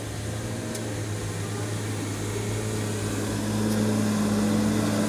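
Vehicle engine running steadily with a low hum, growing a little louder in the last second or so.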